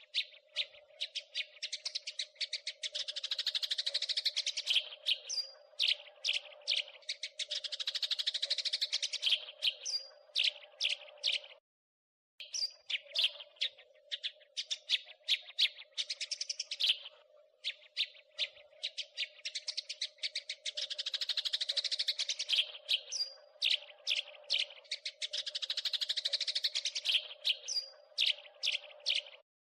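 House sparrows chirping and chattering in fast, dense runs of short notes, over a steady low hum. The sound drops out completely for about half a second near the middle.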